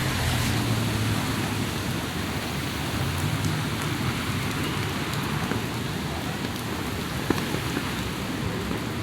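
Heavy rain falling steadily, an even hiss of rain on surfaces with scattered drop ticks and one sharper tick about seven seconds in.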